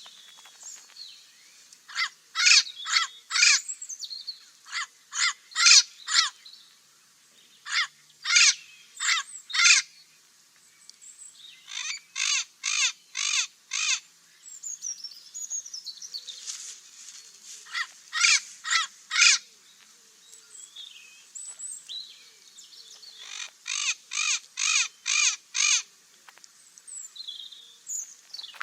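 Parrot giving harsh, repeated squawks in bursts of four to six calls at about three a second, with softer chattering calls in between.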